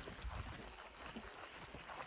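A hiker's footsteps on a trail, faint, uneven thuds with a few light ticks.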